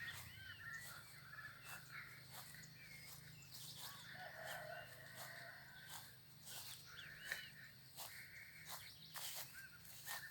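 Birds chirping repeatedly in short calls, over footsteps on a path.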